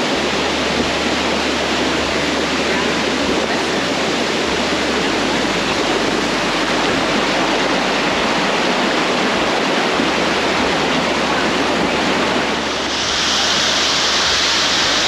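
Bridal Veil Falls: a waterfall's water pouring down as a loud, steady rush. About 13 seconds in, the rush turns brighter and hissier.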